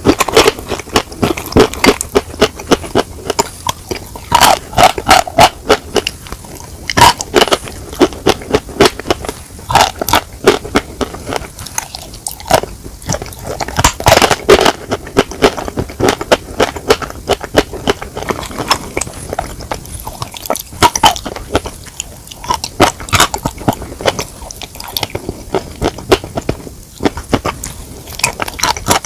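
Close-miked eating of chicken: chewing and crunching, with a dense run of crackles and frequent sharp, loud crunches.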